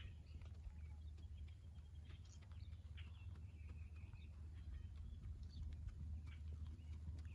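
Faint, irregular hoofbeats of a horse moving on a lunge line, with short high bird chirps and a steady low rumble underneath.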